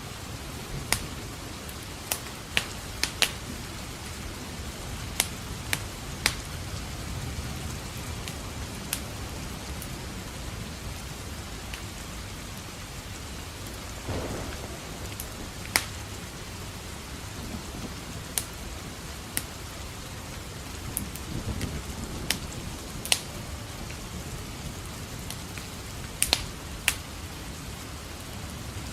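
Steady rain with a wood fire crackling in irregular sharp pops and snaps, and low thunder rumbling, once about halfway and again about three-quarters through.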